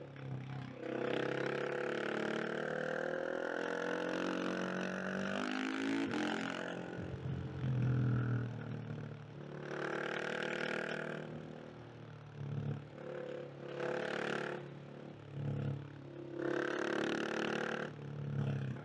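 KTM 690 SMC R's single-cylinder four-stroke engine pulling hard with rising pitch for several seconds, then easing off. It is followed by three shorter bursts of throttle with the revs dropping away between them.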